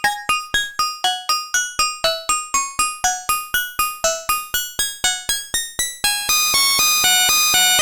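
Modbap Osiris wavetable oscillator in a Eurorack patch playing a fast sequenced pattern of short, plucked, bright notes, about four or five a second. A little after six seconds in, the decay opens up and the notes ring on into one another as a continuous stream.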